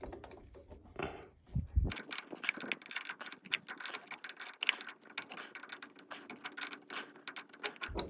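Ratchet wrench clicking in quick runs while a battery cable terminal nut is tightened, with a couple of low knocks about one and a half seconds in.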